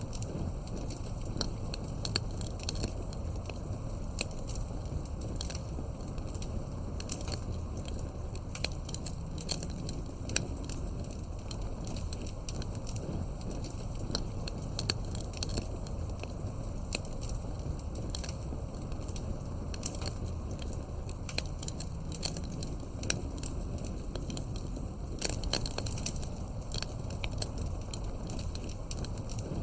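Wood campfire crackling: frequent irregular pops and snaps over a steady low rumble of the burning fire.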